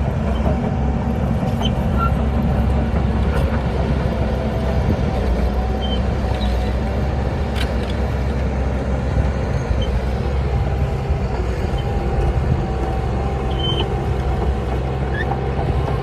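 Heavy diesel earthmoving machinery running steadily with a deep engine rumble and a thin higher whine over it, plus a couple of faint light clanks.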